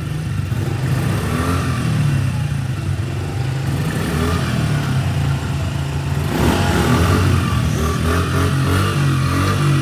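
Small Honda pit bike's four-stroke single-cylinder engine revving in blips over its idle, the pitch rising and falling repeatedly, with a louder rev about six and a half seconds in.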